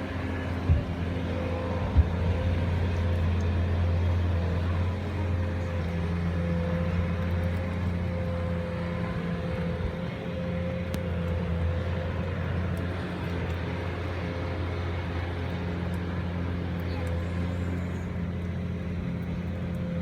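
Steady low hum of a running vehicle engine, with two sharp knocks in the first two seconds.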